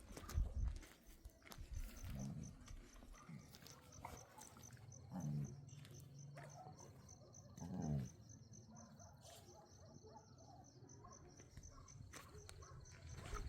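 Insects chirping in a fast, steady pulse, high-pitched, like crickets. There are scattered faint clicks and two short, louder low sounds about five and eight seconds in.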